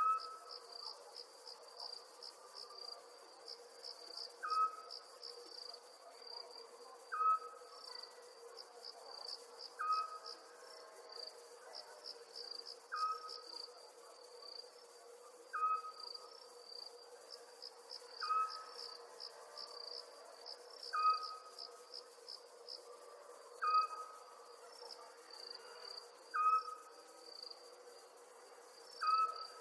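Night chorus of crickets trilling steadily in quick pulses, with another animal's single short call repeated about every three seconds over it, the loudest sound each time, and a faint steady low hum beneath.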